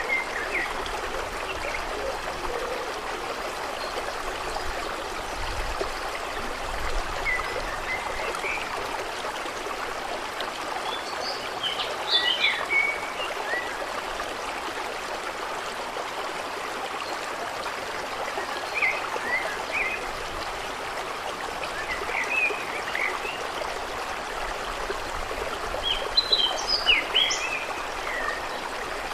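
Steady rush of flowing water, with birds chirping in short clusters every few seconds, busiest near the end.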